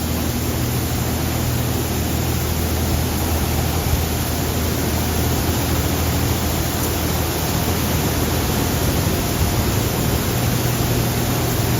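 Oasis Typhoon touchless car wash spraying the car with high-pressure water jets: a loud, steady hiss, with a low hum underneath.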